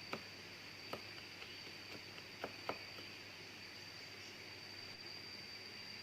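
Jungle insects giving a steady, high, unbroken drone, with four short sharp clicks or knocks in the first three seconds, two of them close together near the end of that stretch.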